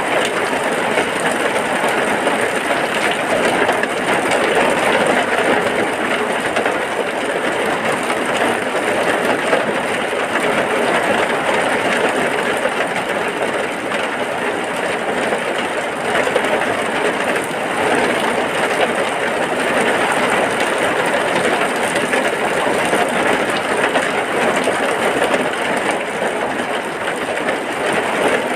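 Heavy rain falling steadily, a dense even hiss with no pauses.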